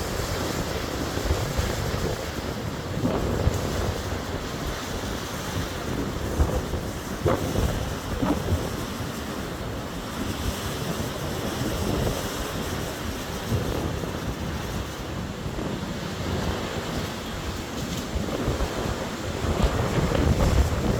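Strong storm wind gusting and buffeting the microphone, a continuous rushing noise that swells and falls, louder near the end. A couple of sharp knocks come about seven and eight seconds in.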